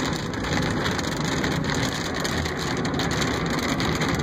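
Steady noise of rain falling on a moving car, mixed with tyres on a wet road, heard from inside the car.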